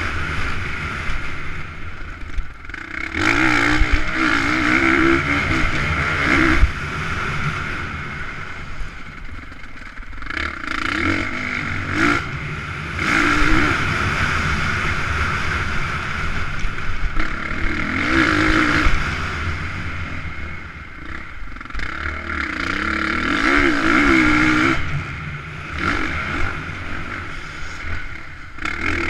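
Motocross bikes racing, engines revving up and down, with several louder surges of a second or two.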